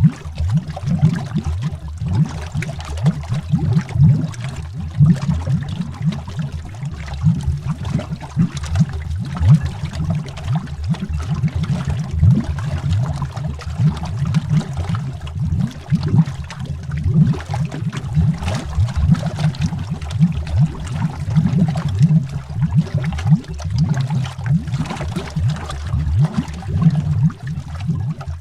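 Underwater bubbles rising in a continuous dense stream: many small low-pitched bloops and gurgles overlapping, heard from beneath the water surface.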